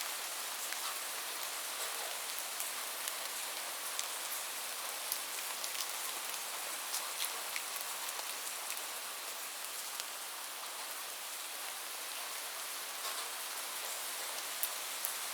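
Steady rain falling: an even hiss of rain with many scattered sharp ticks of single drops striking a surface.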